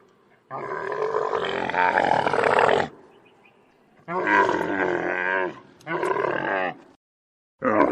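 Recorded animal calls: one long pitched call, then two shorter wavering calls and a brief one near the end.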